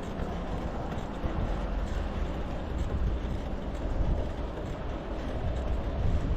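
Wind buffeting the microphone of a camera on a moving bicycle, a steady low rumble with rolling riding noise under it.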